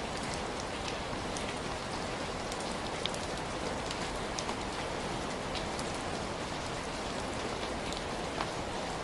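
Heavy rain falling steadily, a constant hiss with scattered individual drops ticking out clearly on a surface.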